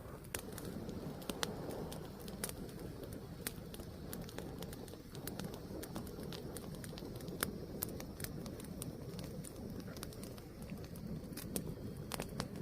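Wood fire burning, with irregular sharp crackles and pops over a steady low rumble of flame.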